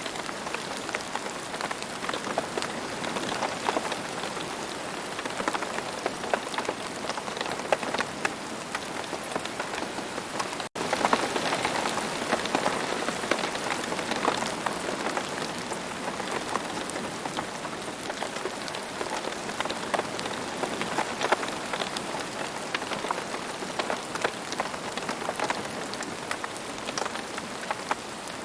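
Steady rain with a dense patter of individual drops striking. About eleven seconds in the sound drops out for a split second, then carries on slightly louder.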